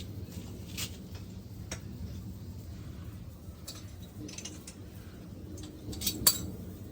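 Scattered light clicks and taps, with a sharper, louder click just after six seconds in, over a low steady hum.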